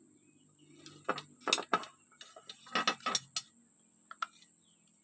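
Small metal parts and tools clinking and knocking against each other and a work surface, about seven sharp clicks in irregular clusters, some in quick pairs, as a brush-cutter carburetor is handled, with a faint low hum underneath.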